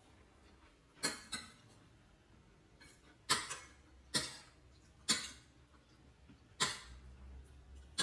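A person eating soup: seven short, sharp sounds at irregular intervals, each fading quickly.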